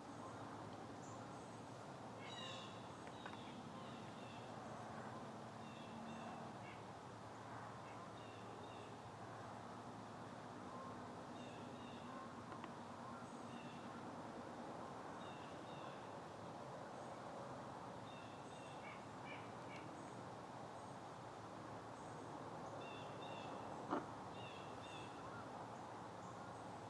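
Early-morning woods ambience: small birds chirping in short, repeated bursts over a faint steady background, with one sharp click near the end.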